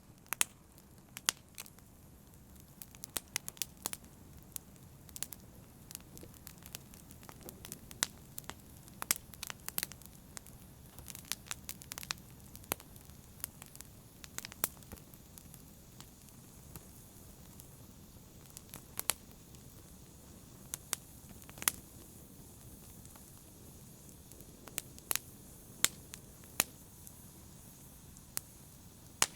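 Wood fire burning: a low steady rumble and hiss of flames with irregular sharp crackles and pops, some much louder than the rest.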